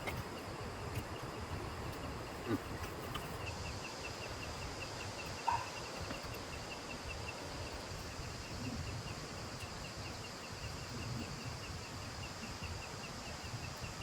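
Insects chirping in a steady rhythm, about three pulses a second, with a constant high buzz over a steady outdoor hiss. Two faint knocks, one a few seconds in and one about halfway through.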